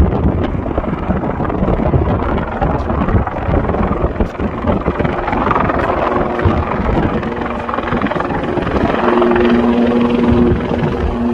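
Firefighting helicopter running loudly, with a dense rumble from the rotors. About two-thirds of the way in, a steady engine hum with a couple of clear tones comes through more plainly.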